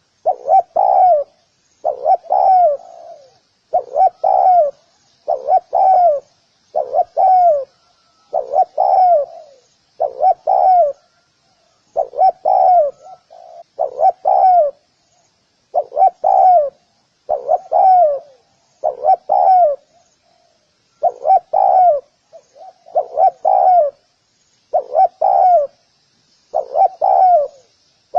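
Spotted dove cooing: a short phrase of two or three coos, repeated over and over about every one and a half to two seconds. Faint high chirping runs behind it.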